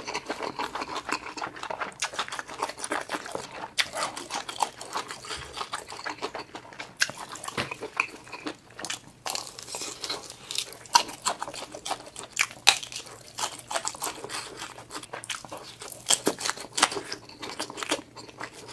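Close-miked chewing and biting of grilled sausages, with irregular wet mouth smacks and clicks.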